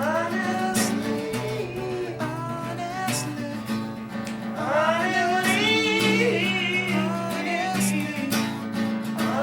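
Acoustic guitar strumming chords, with a voice singing long, wavering notes that carry no clear words. The voice swoops up about half a second in and again around the five-second mark.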